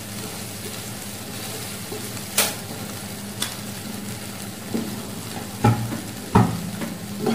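Thick chicken curry sizzling in a nonstick karai while a wooden spatula stirs it, with a few sharp knocks, the loudest two near the end.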